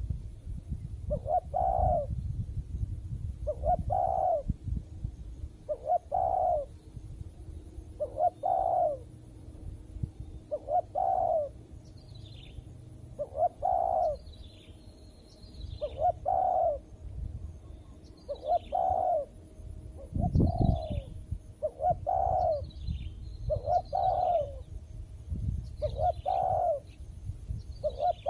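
Spotted dove cooing over and over, one phrase about every two seconds. From about halfway on, another bird chirps thin high notes between the coos, over a low rumble.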